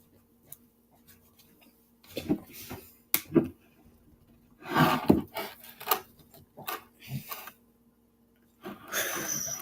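Spoon stirring stiff, cornstarch-like edible slime in a bowl: irregular scrapes and knocks, with a louder cluster about halfway and a rustle near the end.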